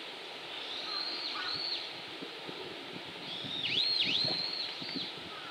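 A bird calling in high whistled notes, each dipping sharply in pitch and rising back: a short phrase about a second in, then a longer, louder one of several dips in the second half.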